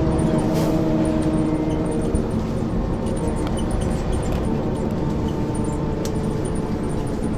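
Ikarus 435 articulated diesel city bus with ZF gearbox running on the move, a steady engine drone with humming tones that are strongest in the first couple of seconds and then settle into an even rumble.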